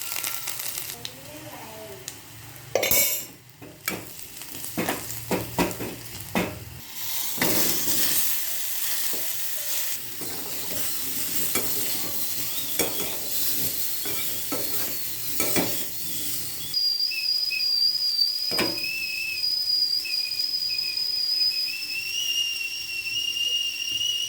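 Tapioca masala sizzling in a pan while a spatula stirs it, with scrapes and clinks of metal against the pan. From about two-thirds of the way in, a steady high whistling tone sounds over the frying.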